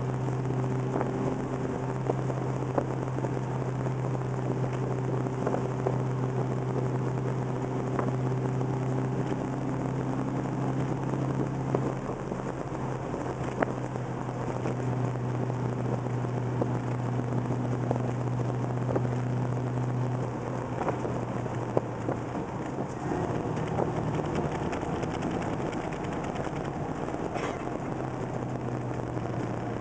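1969 Plymouth Road Runner's 440 V8, bored .040 over with a Magnum cam, running under way as heard from inside the cabin: a steady low engine drone over tyre and road noise. About two-thirds of the way through, the drone eases and changes pitch, then settles again.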